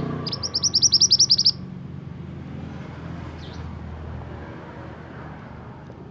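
Pied bushchat (mantenan) singing: a fast run of about a dozen high, sharp chirps in the first second and a half, then one faint note a little past the middle. A steady low hum runs underneath.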